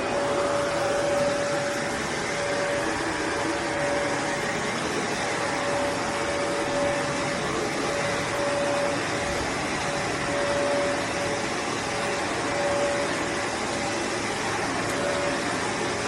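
Shark ZU782 DuoClean upright vacuum cleaner running steadily at full speed while vacuuming carpet: a steady high whine over a rush of air.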